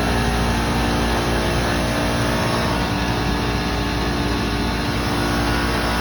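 Commercial chiller running, a steady machinery drone with a constant hum of several steady tones and no change in level.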